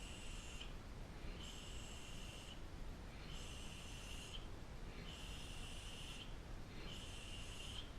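A high-pitched buzzing call, each about a second long, repeating about every two seconds over a steady faint hiss. No kicks or impacts are heard.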